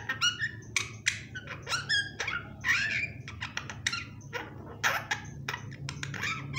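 Pet myna calling: a quick run of short, high, squeaky calls and whistles, several a second.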